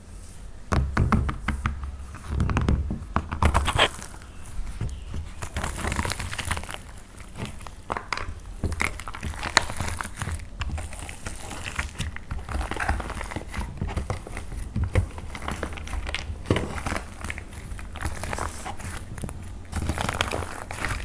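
Dried plaster clay being squeezed and broken apart by hand, a dense run of crackling and crunching with many small sharp snaps and a few louder crunches.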